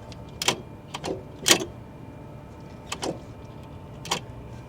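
Irregular sharp clicks and knocks, about six in four seconds, over a steady low hum.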